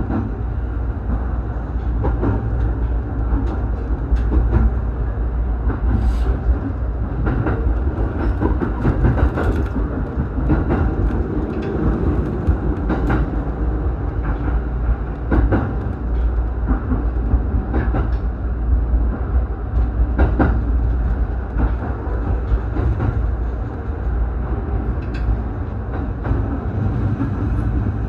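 Electric commuter train of the JR Kawagoe Line running at speed, heard from inside the carriage: a steady low rumble with scattered sharp clicks of the wheels over rail joints.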